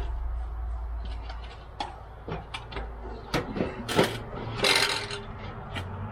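A small lawn mower engine being lifted and set down: scattered metal knocks and clunks, loudest about three to four seconds in, with a short scrape about five seconds in.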